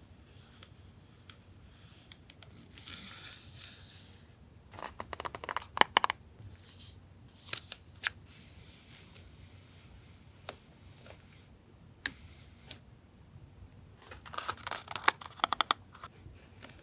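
Packaging and stationery being handled: a crinkle of plastic or paper wrapping about three seconds in, then two runs of quick small clicks and taps, one about five seconds in and one near the end, with a few single clicks between.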